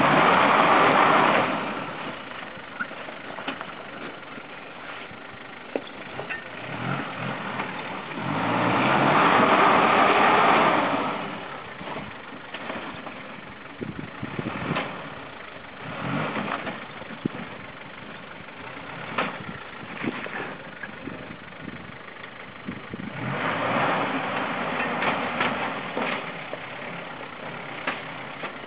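Vauxhall Frontera 4x4's engine revving in three long surges, near the start, around nine seconds in and near the end, as it crawls up a rocky step, dropping back to a low run between them. Scattered sharp knocks between the surges.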